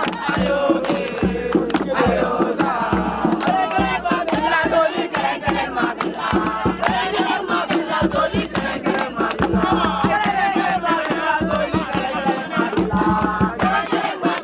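A crowd of young people chanting and singing together in call-and-response style over a fast beat of sharp percussive hits.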